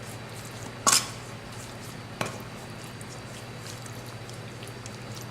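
Kitchenware being handled over a steady low hum: one sharp knock about a second in and a lighter click a little after two seconds, with faint taps between.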